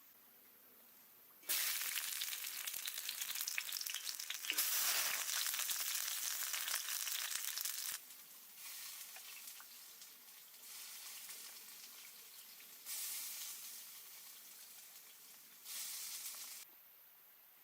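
Food frying with a dense crackling sizzle, loudest in the first half, then softer in several short stretches that start and stop abruptly.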